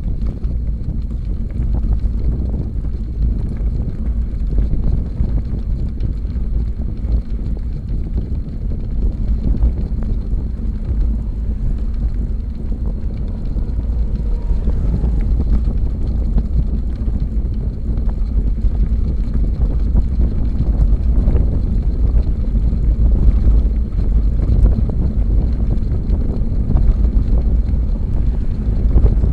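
Wind buffeting a camera microphone on a moving bicycle: a steady, loud low rumble with no clear breaks.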